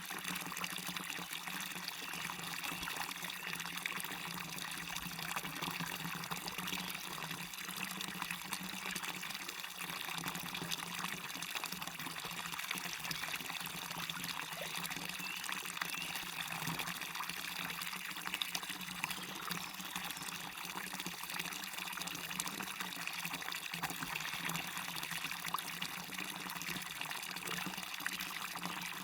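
Small waterfall splashing and a stream running, a steady rush with many fine splashes, even throughout.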